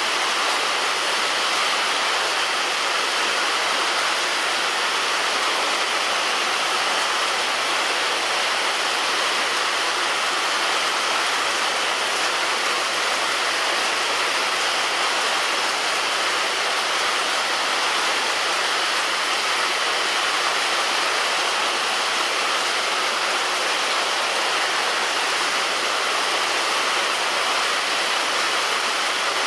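Heavy rain falling on a roof: a dense, steady hiss that does not change.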